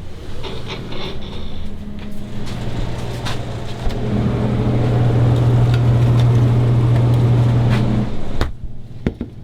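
A motor vehicle running: a steady low hum that swells louder over several seconds, then cuts off abruptly near the end, with a few light clicks.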